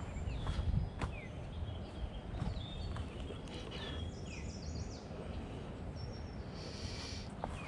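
Small birds calling with many short, quick chirps and whistled notes, over a steady low background rumble.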